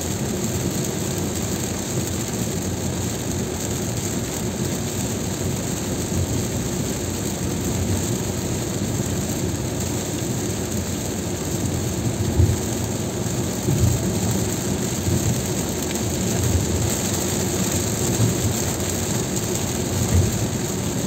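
A car driving through heavy rain on a wet highway: a steady wash of rain and tyre noise, with a few short low thumps in the second half.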